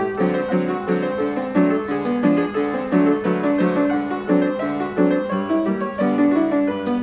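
Player piano playing a Spanish waltz from an 88-note paper roll, notes and chords struck in a steady rhythm.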